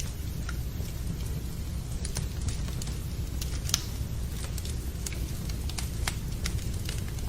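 Wood fire crackling with irregular sharp pops, over a steady low rumble of rain.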